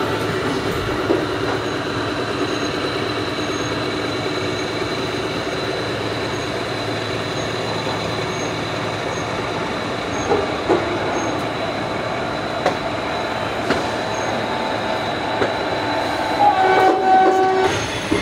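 Passenger train running through a station yard, heard from an open coach doorway: a steady rolling rumble with a few sharp clicks as the wheels cross rail joints and points. A horn sounds for about a second near the end.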